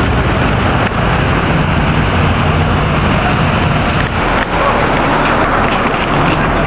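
Loud V8 sports car engine and exhaust running steadily, captured harshly on a small camera microphone, with a few brief dips in level.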